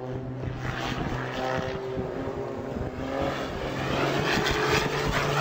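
Aircraft engine drone, a steady hum over rushing noise that grows louder toward the end.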